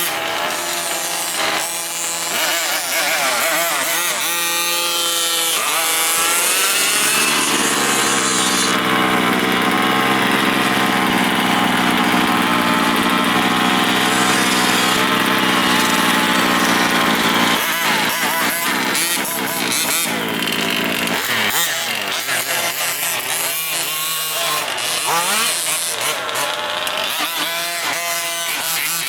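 Small two-stroke engines of gas-powered 1/5-scale RC trucks revving up and down, holding a steady high rev for about ten seconds in the middle before dropping back to revving bursts.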